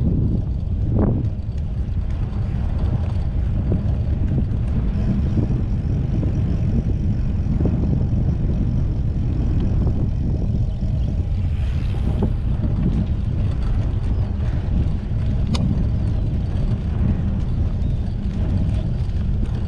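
Steady low wind rumble on the microphone of a moving bicycle, with a few sharp clicks from the bike.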